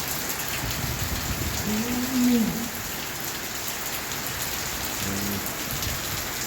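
Heavy rain pouring steadily. About two seconds in a short low call rises and falls over it, and a briefer one comes about five seconds in.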